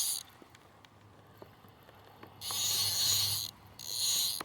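Fishing reel's drag buzzing in short bursts as a hooked smallmouth bass pulls line off: one burst ends just after the start, then a longer one of about a second midway and a shorter one near the end. The drag is now slipping, and the angler thinks it may be set too loose.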